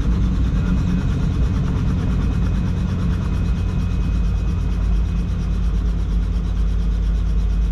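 Helicopter running, a steady low rumble of turbine engine and rotor heard from inside the cabin, with a faint steady whine above it.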